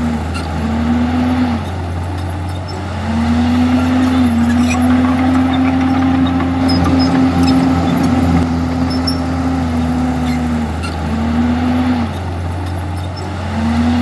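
Komatsu D51EX bulldozer's diesel engine running steadily under work, with a whine that sounds in several stretches, dropping out briefly a few times, and faint clicks and clanks over it.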